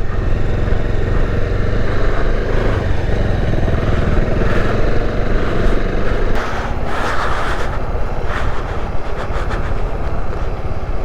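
Bajaj Dominar 400's single-cylinder engine running steadily as the motorcycle is ridden, easing off a little about six seconds in. Short bursts of hiss come and go over the engine.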